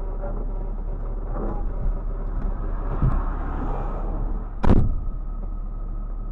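A car's engine and road noise, a steady low rumble, broken about three-quarters of the way through by one short, loud bang: a collision impact.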